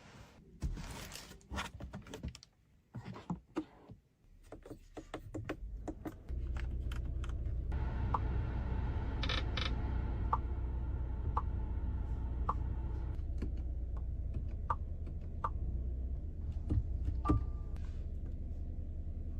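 Clicks and knocks of controls being handled inside a Lynk & Co 01, then a steady low hum that comes on suddenly about six seconds in and holds, with sharp ticks about once a second for several seconds and a short chime near the end.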